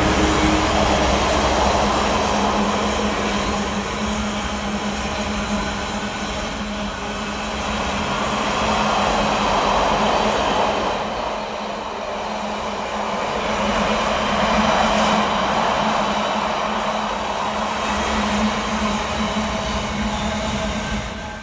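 Container wagons of a freight train rolling past on the rails: a continuous wheel-and-rail rumble that swells and eases as the wagons go by.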